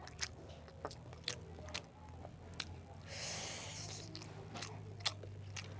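Close-miked mouth sounds of chewing a bite of soft rolled-egg skewer (telur gulung): irregular wet clicks and smacks about twice a second. A breath out through the nose lasts about a second, roughly three seconds in.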